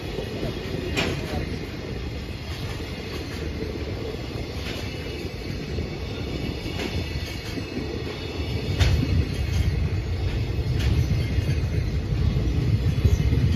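Container wagons of a JR Freight train rolling past: a steady low rumble of wheels on rail with a few sharp clacks, growing louder near the end.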